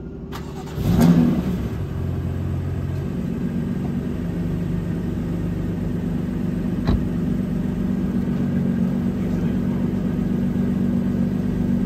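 A car engine running steadily, with a short louder surge about a second in and a single sharp click near the middle.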